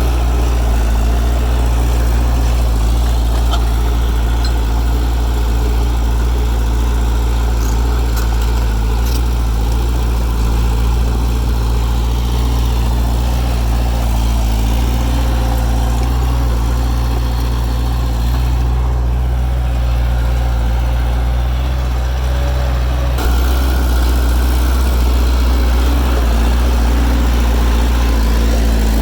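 Bulldozer diesel engine running steadily with a deep, even drone, the sound becoming slightly louder and brighter about 23 seconds in.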